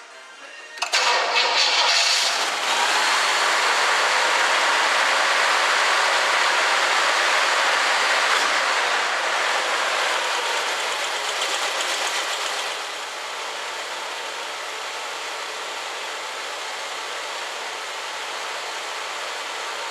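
Steady rushing hiss of gas moving through the car's air-conditioning service hoses, which is either refrigerant being charged in or air flowing while the system is under vacuum. It starts abruptly about a second in and drops to a quieter hiss about two-thirds of the way through.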